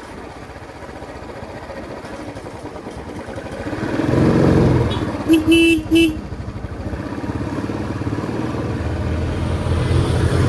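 Royal Enfield Classic 350's single-cylinder engine running under way, pulling harder and louder about four seconds in. Around the middle, a vehicle horn sounds two short honks.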